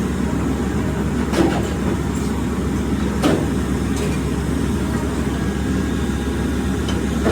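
Steady low rumble of workshop machinery, with two short knocks about a second and a half and three seconds in.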